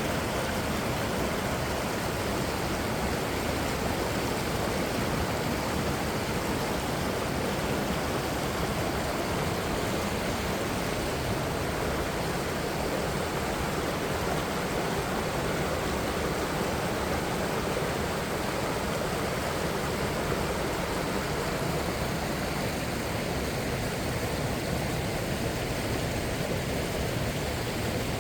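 Mountain stream flowing through a rocky gorge: a steady, unbroken rush of water.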